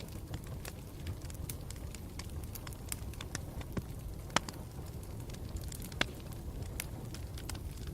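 Campfire burning with a steady low rumble and frequent small crackles, two louder pops a little over four seconds and about six seconds in.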